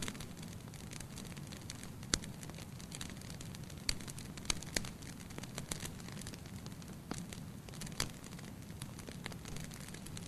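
Fire burning in a fireplace: a steady low rumble of flames with irregular sharp crackles and pops, the louder ones about two, four to five, seven and eight seconds in.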